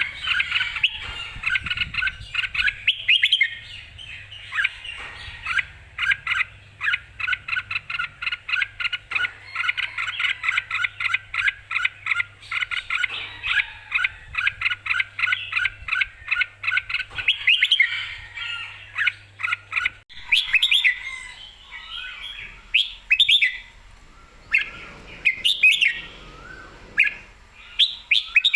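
Red-whiskered bulbul singing: a fast, steady run of short repeated chirping notes, about two to three a second. About two-thirds of the way through this changes to looser, more varied warbled phrases.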